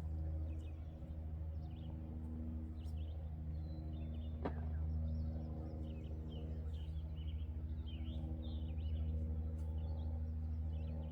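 Small birds chirping again and again over a steady low hum, with a single sharp click about four and a half seconds in.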